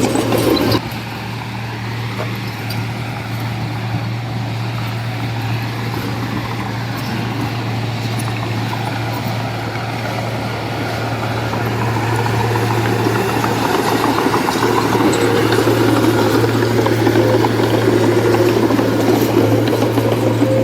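Heavy diesel machinery engine running with a steady low hum and a rough clatter over it. The sound dips sharply about a second in, then slowly grows louder and busier through the second half, as if the machine is working under more load.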